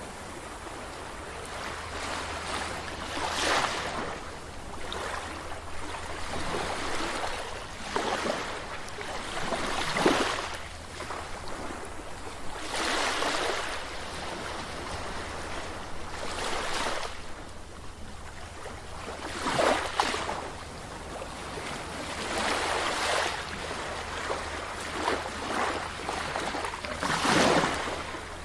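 Sea waves breaking and washing on a beach, a new surge every few seconds over a steady rush of surf.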